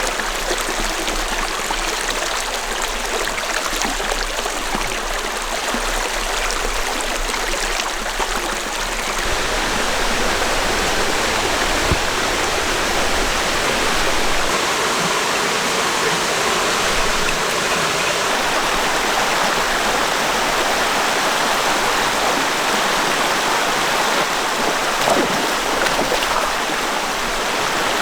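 Calm valley stream flowing: a steady rush of running water, its tone shifting slightly twice.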